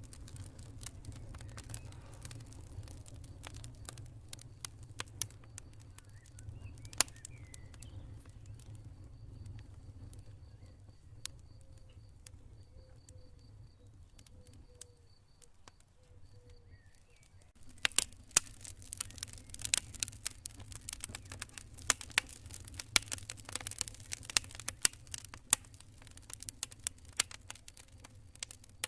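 Campfire crackling, sharp snaps and pops over a steady low rumble of the fire. The pops are sparse through the first half and become dense and continuous about two-thirds of the way through.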